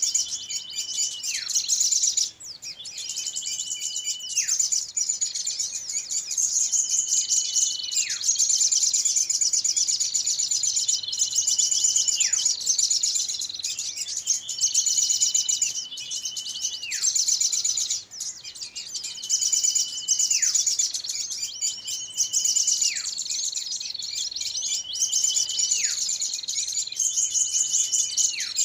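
Bird-lure recording of small birds calling noisily: a dense high twittering runs throughout, and over it a call repeats about every two seconds, holding one pitch briefly and then dropping sharply. The calls repeat in a regular looped pattern.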